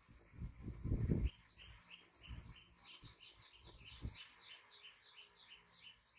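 A bird chirping over and over in a quick, regular two-note pattern, about four chirps a second, starting about a second in. Low thumps and rustling come near the start, the loudest sound, with a few softer ones later.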